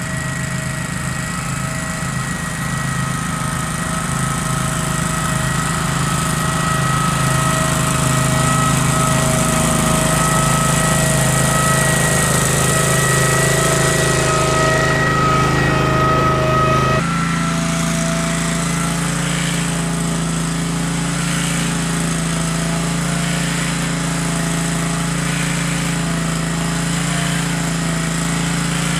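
Case 446 garden tractor's engine running steadily while it pushes snow with its front blade, with a steady whine over it. About two-thirds of the way through, the sound shifts abruptly: the whine drops away and the engine's note changes.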